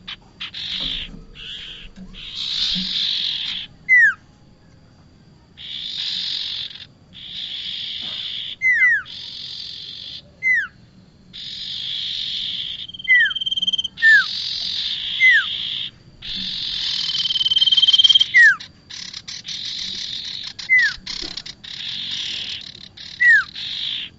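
Prinia (prenjak) calls: a series of harsh, buzzy chattering bursts, each lasting about a second, alternating with short sharp whistled notes that slide quickly downward. Twice a brief steady high-pitched note is held.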